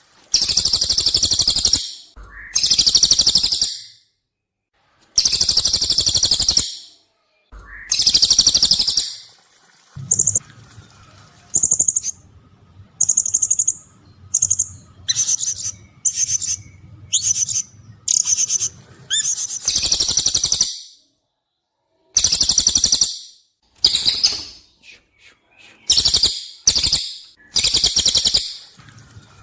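Recorded bird calls of the cililin and the serindit (blue-crowned hanging parrot). Loud, harsh, buzzy calls about a second long, with pauses between them, alternate with a run of short, sharp, high chirps in the middle.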